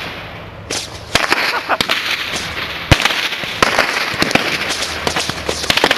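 A pile of fireworks caught in a fire and going off in a chain: a rapid, irregular string of pops and crackles starting about a second in, with one loud bang near the middle.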